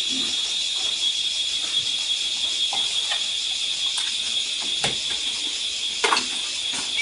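A steady, high-pitched insect chorus shrilling continuously, with a few sharp knocks or clicks about five and six seconds in.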